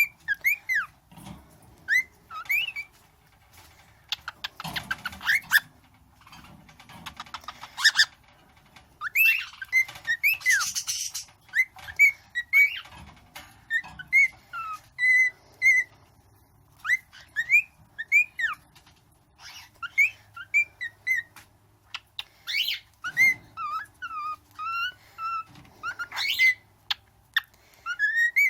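Pet cockatiel whistling a string of short notes that glide up and down, with a few clicks and a couple of brief harsher, raspy stretches.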